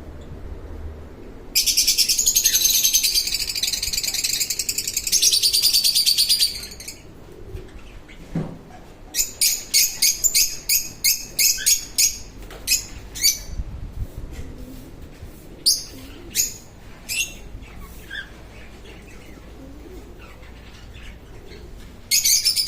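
A corella screeching: one harsh, buzzy screech lasting about five seconds, then a quick run of short sharp calls that thin out. Another harsh screech starts near the end.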